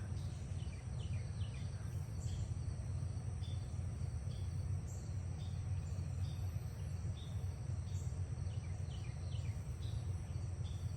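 Steady low background rumble with an insect, a cricket, chirping at an even pace about once a second. A few quick falling chirps come in twice, about a second in and again near the end.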